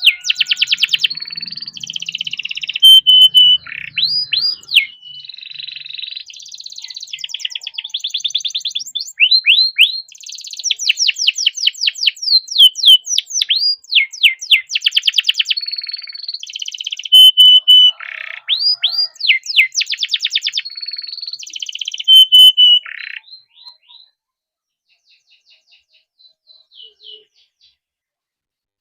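Domestic canary singing a long, continuous song of rapid trills and repeated sharp notes. The song breaks off about 23 seconds in, and a few faint notes follow.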